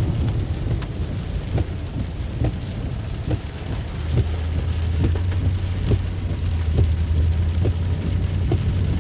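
Car driving through heavy rain on a flooded street: a steady low rumble of the engine and road under rain and water noise, with a soft knock repeating a little under once a second.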